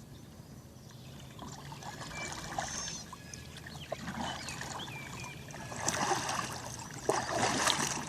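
Kayak paddle dipping and pulling through river water, with splashing and dripping, louder about six seconds in and again near the end.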